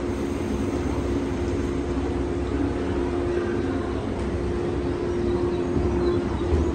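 Electric commuter train pulling out of the station, a steady hum over a low rumble that grows a little louder near the end; it leaves without sounding a horn.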